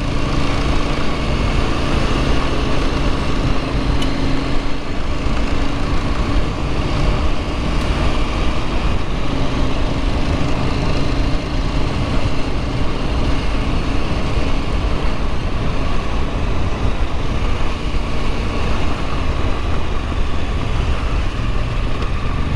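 Husqvarna Norden 901 adventure motorcycle's parallel-twin engine running at a steady cruising speed on a gravel road, with wind noise over the microphone.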